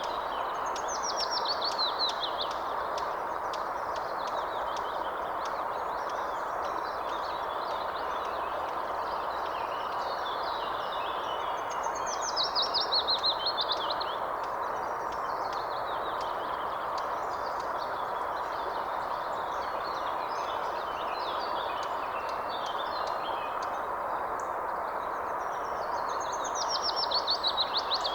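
Wild birds singing: one bird repeats a descending trilled phrase about every 12 seconds while other birds chirp throughout, over a steady rushing background noise.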